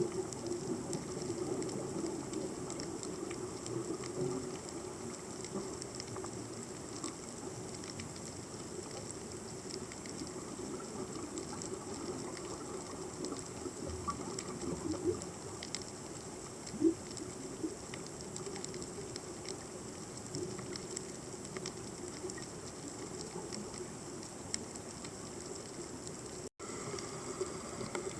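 Underwater reef ambience: a continuous crackle of many small clicks, typical of snapping shrimp, over a steady low drone, with an occasional louder click and a brief dropout near the end.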